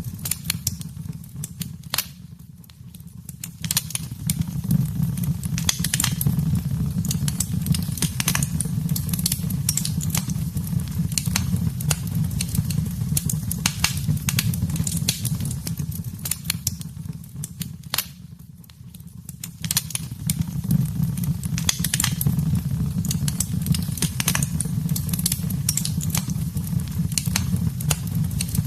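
Wood fire burning in a fireplace: frequent sharp crackles and pops over a steady low rumble of the flames. The low rumble fades briefly twice while the crackling carries on.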